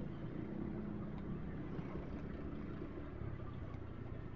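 Motorcycle engine running steadily at low revs, a low even hum without revving.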